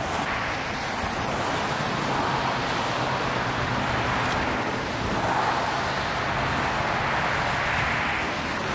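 A vehicle engine running steadily under an even rushing noise, with no sharp knocks or changes.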